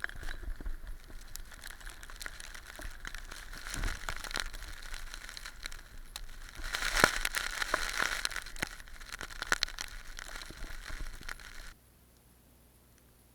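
Crackling, crumpling noise of a camera sealed in a waterproof case as a bicycle rolls downhill through snow, full of small clicks over a steady hiss. It gets loudest about halfway through, then cuts off abruptly near the end.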